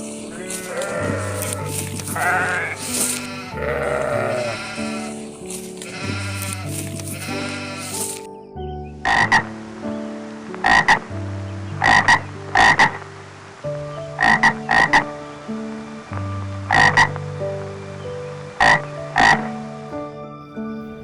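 Animal calls over cheerful background music: wavering, bleat-like calls for the first several seconds, then, after a short break, a long series of short, sharp calls, singly and in quick pairs.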